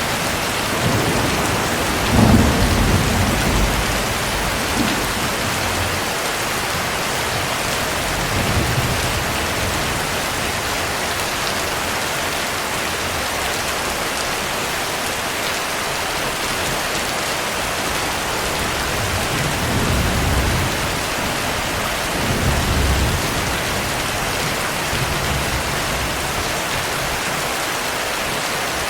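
Steady heavy rain with low rumbles of thunder rolling in several times, the strongest about two seconds in and more around twenty seconds in.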